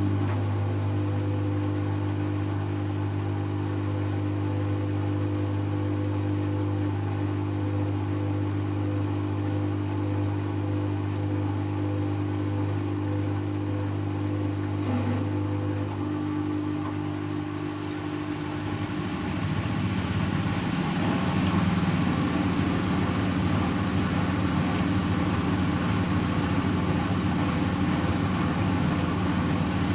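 Servis Automatic M3008B washing machine in its 800 rpm intermediate spin: a steady low motor hum that, about two-thirds of the way in, changes to a rougher, slightly louder whirring.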